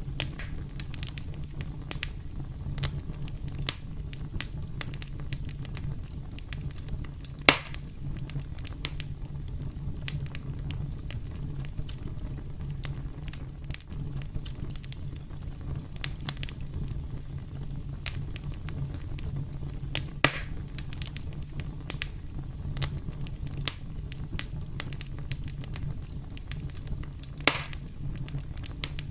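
Campfire burning with a steady low rumble and constant scattered crackling, with three louder pops, the first about a quarter of the way in, another about two-thirds through, and the last near the end.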